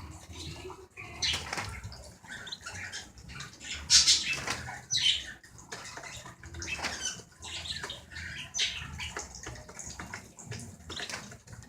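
Pigeons and canaries flapping and fluttering their wings in irregular bursts, the loudest about four seconds in.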